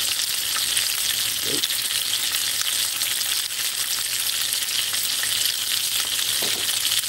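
Battered onion rings frying in hot oil in a cast-iron skillet, with hamburger steaks frying in a second pan: a steady sizzle with fine crackles.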